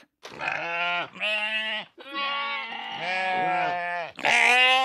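Sheep bleating: several wavering calls one after another, with a longer call in the middle.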